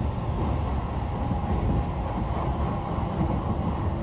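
Tokyo Metro 18000 series electric train running, heard from inside the car: a steady low rumble of wheels on rails with a faint whine from its Mitsubishi IGBT inverter and permanent-magnet synchronous motors.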